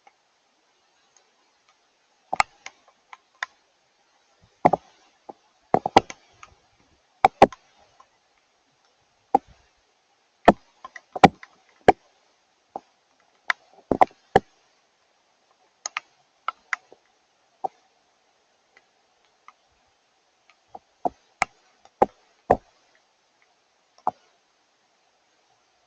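Drops of rain and melting snow striking a hard surface: sharp ticks and knocks at uneven intervals, sometimes two or three in quick succession, over a faint steady hum.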